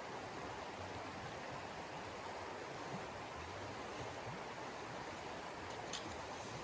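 Steady rushing noise, with one faint click near the end.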